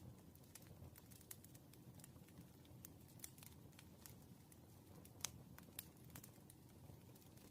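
Faint, irregular clicks and taps of writing on paper at a desk, a few a second, with the sharpest tap about five seconds in, over a low steady room hum.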